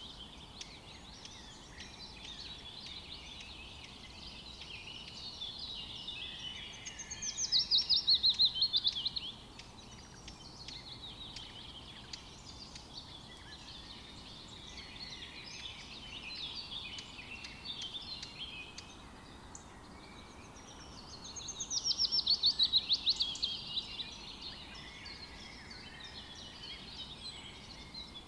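Forest birds singing and chirping continuously over a faint steady hiss, with two loud, fast trilling songs that descend in pitch, one about a quarter of the way in and one about three-quarters of the way in.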